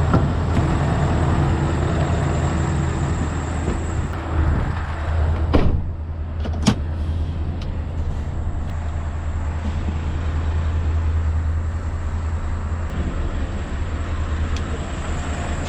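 Scania V8 truck engine running with a steady low drone. Two sharp knocks come about a second apart near the middle.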